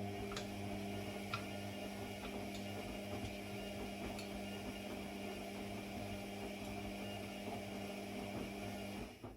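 An electric motor humming steadily with a mains-frequency drone and a few light ticks, then switching off about nine seconds in.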